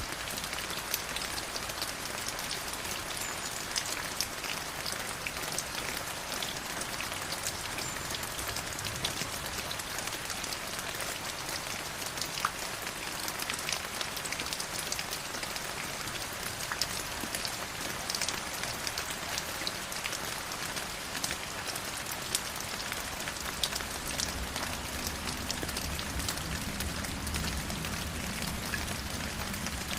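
River water flowing over stones: a steady, dense hiss full of small splashes. A deeper rumble swells in the last few seconds.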